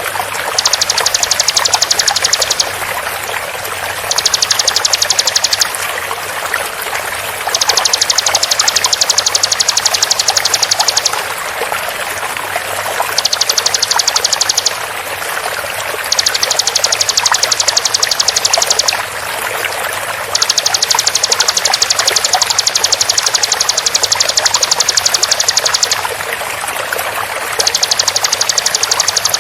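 Bar-winged prinia (ciblek) giving its rapid-fire 'tembakan' call: seven bouts of a very fast, high, repeated note, each one to six seconds long with short pauses between. Steady flowing water runs underneath throughout.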